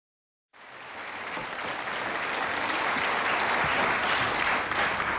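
Studio audience applauding, the clapping swelling up about half a second in and easing off near the end.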